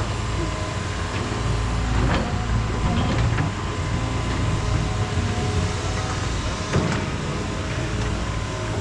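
Heavy-equipment engine running steadily with a low hum, with a few short knocks or clanks over it.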